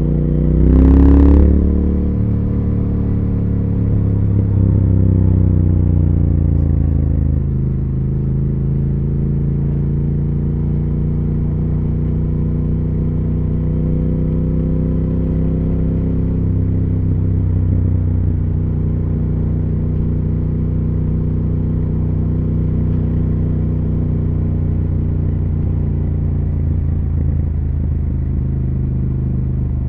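Triumph Speed Twin 1200 parallel-twin engine and exhaust under way. A brief rev about a second in is followed by a louder stretch whose pitch slowly falls between about 4 and 7 seconds. The engine then runs at a steady cruise.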